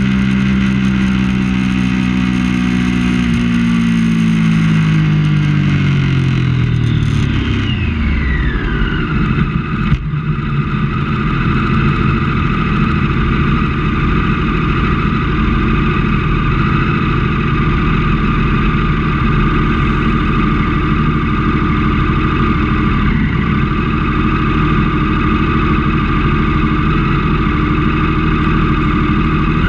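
Triumph Daytona 675 three-cylinder race bike engine under way. Its note falls steadily over the first eight seconds or so, then holds a steady pitch for the rest.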